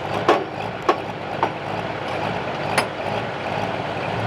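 Diesel pickup truck engine running steadily at a low, even pitch, not revving, with a few sharp clicks over it.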